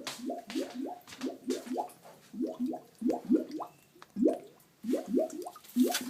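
Toilet bowl water plopping and gurgling in quick runs of short, rising-pitch bloops as the washing machine pumps its discharge water into the shared drain.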